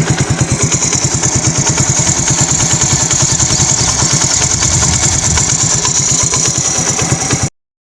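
Motorcycle engine running steadily with a fast, even pulsing beat over a steady hiss. It cuts off abruptly near the end.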